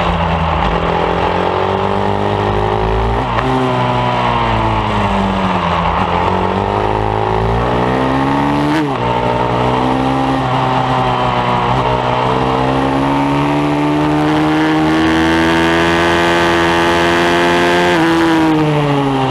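Bucci F15R pit bike's single-cylinder engine ridden hard on a track, revs climbing and falling repeatedly as it accelerates, shifts and brakes. Pitch drops sharply about three seconds in and again around nine seconds, then climbs through a long pull before falling near the end.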